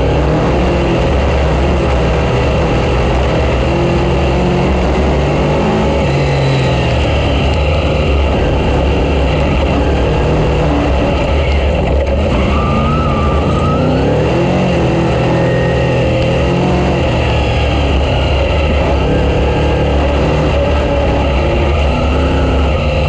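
Race car engine running hard and loud throughout, its pitch rising and falling a little as the throttle changes.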